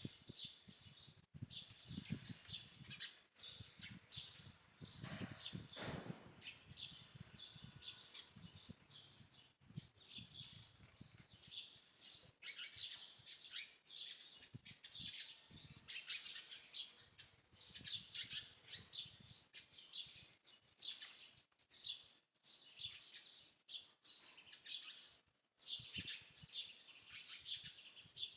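Small birds chirping in rapid, constant twittering, with low rustling and thumps through the first half.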